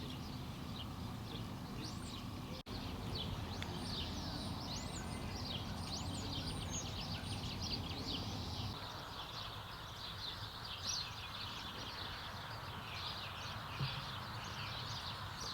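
Outdoor ambience of birds singing, many quick chirps and whistles, over a steady low rumble that drops away about nine seconds in.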